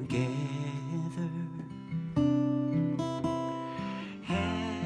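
Song refrain with acoustic guitar: a voice sings the word 'together', then the guitar carries on alone with strummed chords for a few seconds until the next sung line.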